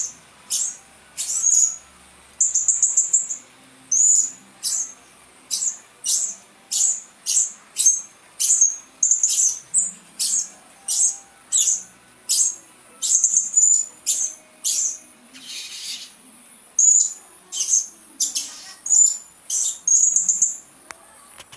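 Blue-crowned hanging parrot calling: a long series of short, high-pitched chirping notes, roughly one to two a second, with a few brief pauses.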